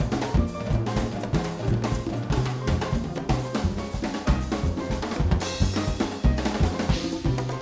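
Latin jazz band playing live, with the drum kit to the fore: busy snare, rimshot and bass-drum strokes over a bass line, and a cymbal wash swelling in about two-thirds of the way through.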